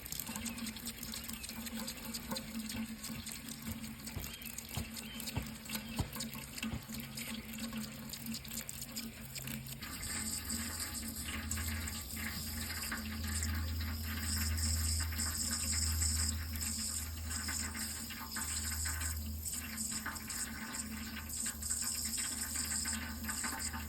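Water running in a steady stream, with a few light ticks in the first several seconds; about ten seconds in, the flow grows fuller and heavier, with a low rumble under the splashing.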